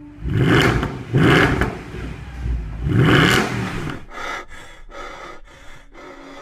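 Car engine revved in three sharp blips, each rising and falling in pitch, followed by a run of short sharp cracks, about three or four a second.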